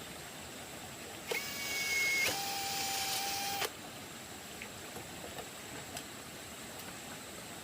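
A small electric motor whines for about two seconds, starting and stopping abruptly. Its pitch steps down to a lower, louder steady tone partway through, as if it took up a load.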